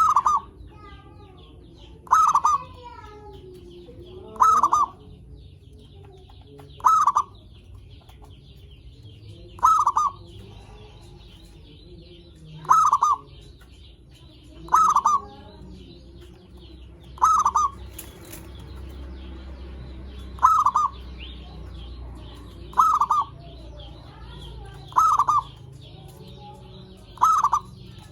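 Zebra dove (perkutut) cooing: a short call repeated about every two and a half seconds, twelve times.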